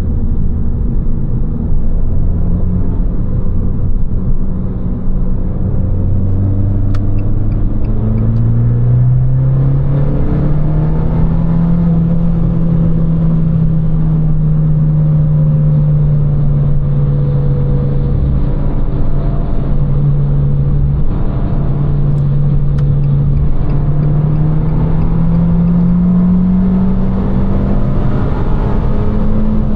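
Abarth 595 Competizione's turbocharged 1.4 T-Jet four-cylinder engine through its Record Monza exhaust, driving under way. The engine note rises over the first ten seconds or so, then holds steady at a cruise. Near the end it climbs again before dropping away.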